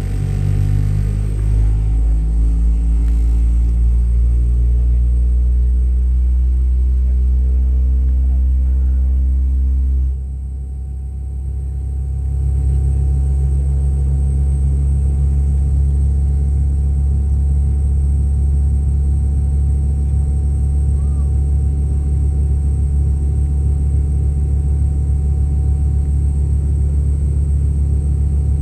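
Steady low rumble and hum of a Boeing 717's engines and air systems heard inside the cabin on the ground. A few layered tones sound in the first seconds, and about ten seconds in the rumble briefly dips and shifts before settling.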